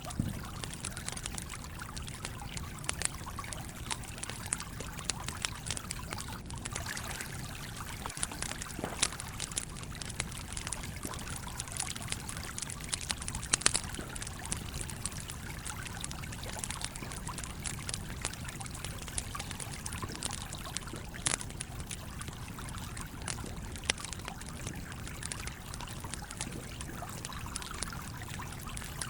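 Campfire crackling, with scattered sharp pops, a few louder ones about halfway through, over the steady trickling flow of a stream.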